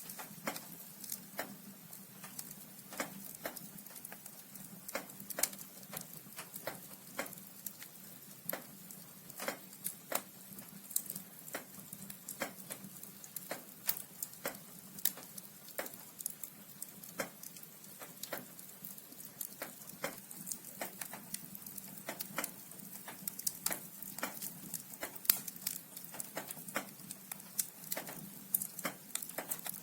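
Logs burning in a fireplace, crackling with frequent irregular sharp pops over a soft hiss, one louder pop about 25 seconds in.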